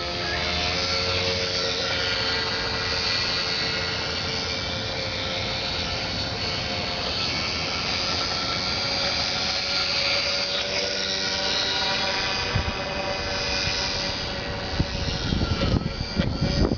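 Micro airboat's small motor and propeller running with a steady high whine whose pitch wavers slightly. Irregular low thumps and rumbling come in near the end.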